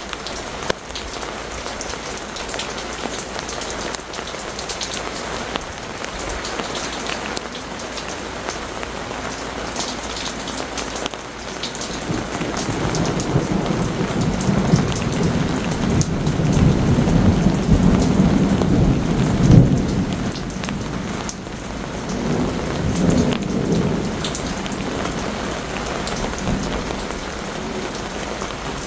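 Heavy rain pattering steadily on surfaces, with a long rolling rumble of thunder that builds from about twelve seconds in, peaks around twenty seconds and rolls on in a second swell before fading.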